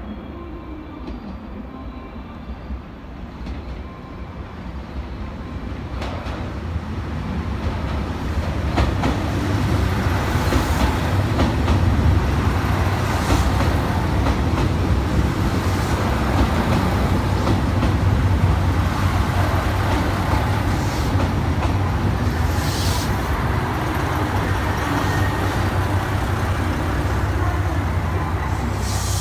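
A train running through a station, a low rumble that grows louder over the first ten seconds or so and then stays steady and loud.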